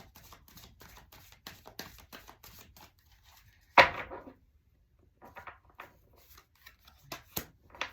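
A deck of tarot cards being shuffled by hand: a quick run of card flicks, several a second. About four seconds in there is one loud slap of cards on the table, then a few more scattered flicks as cards are handled.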